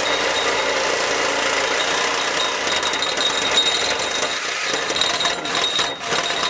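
Reciprocating saw (Sawzall) cutting through a car's steel exhaust pipe, running steadily with rapid saw strokes.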